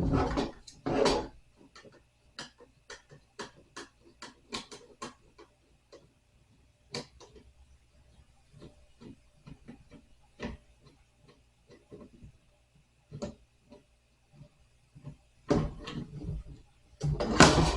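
Sharp clicks and small knocks from a particleboard nightstand being taken apart by hand with a screwdriver: screws being worked loose and the panels and hardware handled. The clicks come in a fairly regular run early on, then more sparsely, with louder knocks near the start and the end.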